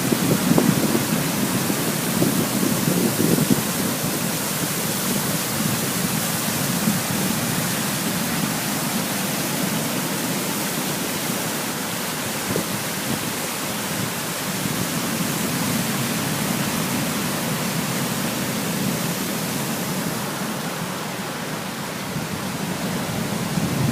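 Steady rush of a waterfall, a continuous roar of falling water, slightly heavier in the first few seconds.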